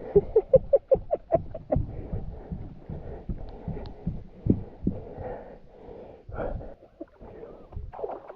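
Muffled water splashing and sloshing close to the microphone: a quick run of about eight splashes in the first two seconds, then irregular sloshing.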